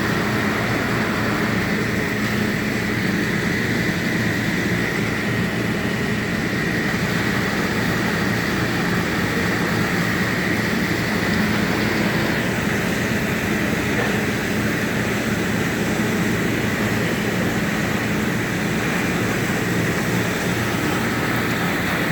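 Heavy machinery's diesel engine running steadily at a demolition, with a thin constant whine above the engine hum and no crashes of falling debris.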